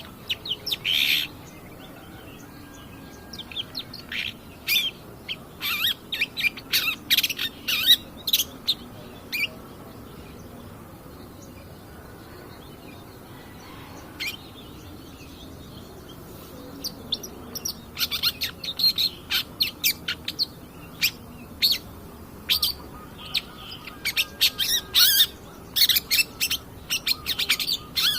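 Long-tailed shrike (cendet) singing a run of short, sharp chirps and calls in quick clusters, with a lull of several seconds in the middle before it sings densely again.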